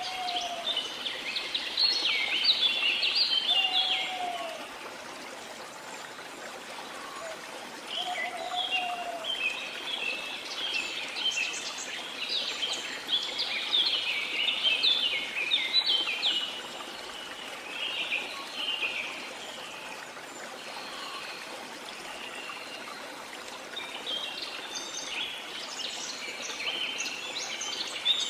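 Steady rush of a waterfall under repeated bouts of bird song: fast, high chirping phrases with short lulls between them, and a few lower whistled notes in the first ten seconds.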